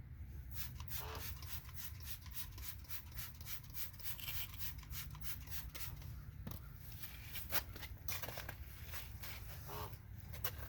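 Quick detailer being sprayed from a trigger bottle onto a car body panel and wiped off with a cloth: a rapid run of short sprays for about the first six seconds, then sparser strokes of cloth rubbing.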